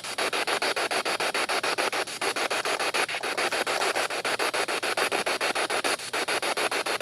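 SB7 spirit box sweeping through radio stations: rapid, evenly chopped bursts of static, about ten a second.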